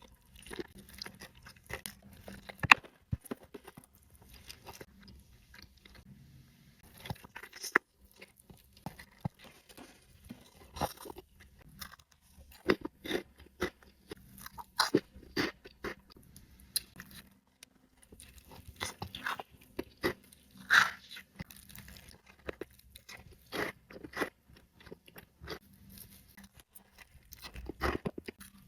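Close-up eating of a burrito: bites and chewing with wet mouth clicks and crackles, coming irregularly.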